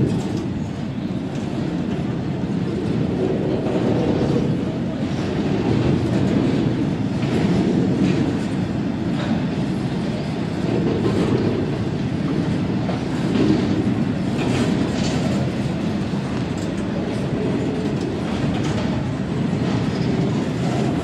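Class 66 diesel freight locomotive moving slowly in reverse, its two-stroke V12 diesel engine running steadily, with the clickety-clack of wheels over rail joints and points as it crosses over to change tracks.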